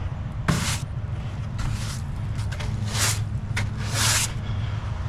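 Diesel engine idling steadily, with short scuffing or hissing noises about once a second over it.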